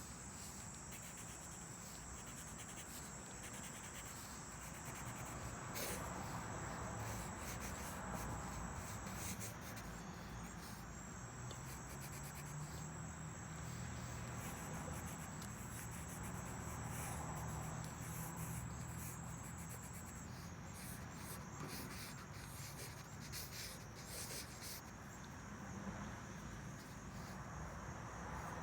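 Pencil or pen strokes scratching softly on paper while sketching, with a steady high insect trill behind them.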